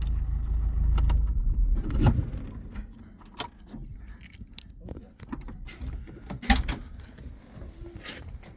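A vehicle's low engine rumble that stops about two seconds in with a knock, followed by scattered light clicks and jingles of keys, with one sharper knock near the end.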